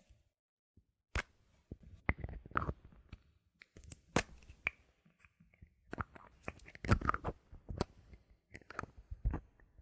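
Plastic and metal bottle caps handled close to the microphone: sharp clicks and taps with short crinkly scraping between them, at irregular intervals after about a second of silence.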